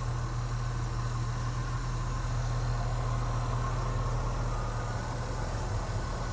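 1976 Chevrolet Blazer's engine running steadily, a constant low hum with no revving.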